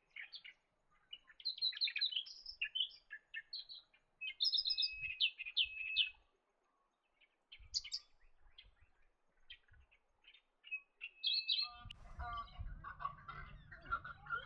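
Birds chirping and twittering in quick, short high notes. A pause comes about two-thirds of the way through. Near the end a lower, harsher calling starts over a low rumble.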